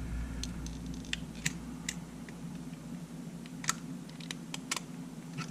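Small sharp clicks and taps, about ten of them at irregular intervals, from small parts of a disassembled Sony A7 camera's viewfinder assembly being handled, over a steady low electrical hum.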